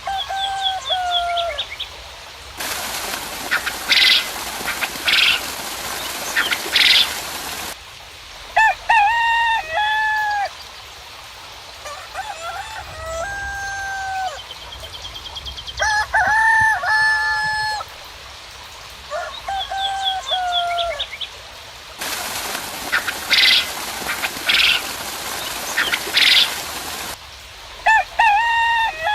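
Roosters crowing again and again in long, held calls. Twice a steady rain hiss cuts in and out abruptly for about five seconds, with a few short high bird chirps over it.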